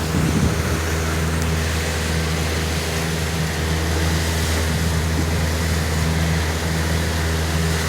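Glass-bottom tour boat's engine running steadily under way, a constant low hum with a steady hiss over it.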